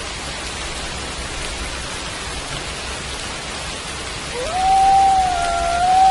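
Steady rain, with a wolf's howl starting about two-thirds of the way in: it rises quickly to a long level note that is still going at the end.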